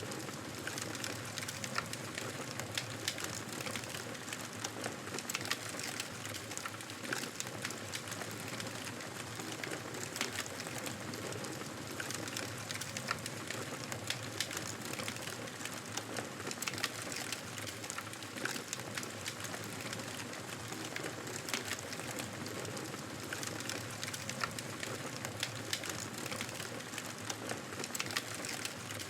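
Wood fire crackling in a fireplace: a steady hiss of burning logs with frequent small sharp pops and snaps.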